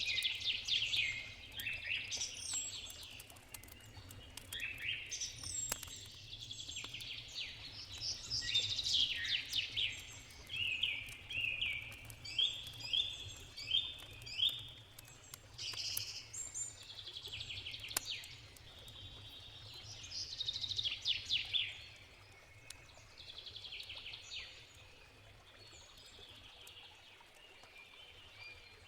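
Songbirds chirping and trilling busily, thinning out after about twenty seconds, with scattered campfire crackles and a low steady river rush beneath.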